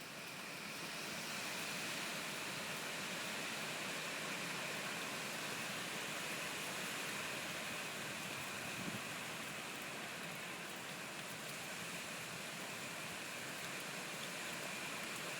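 Hurricane-force wind gusting, an even hiss that rises over the first two seconds and then holds steady.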